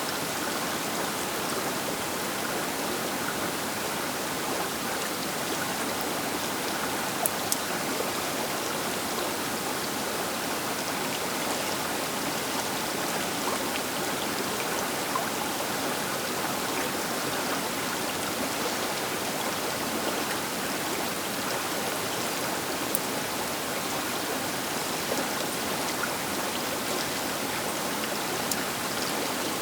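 The Baker River flowing past its bank: a steady, even rush of water, with a few faint sharp splashes or ticks.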